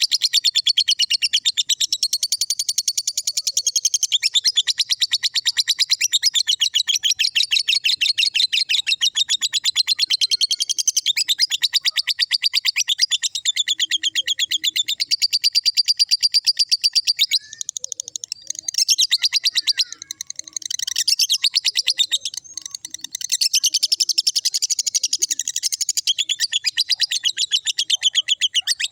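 Lovebird singing 'ngekek': a long, fast, unbroken run of shrill chattering notes. It breaks off briefly a few times about two-thirds of the way through, then runs on again.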